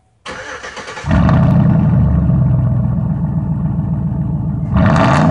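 Chevy 5.3 Vortec V8 with a cat-back straight-pipe exhaust, catalytic converters retained, cranking briefly and firing up about a second in, then running loud. It gets louder again near the end.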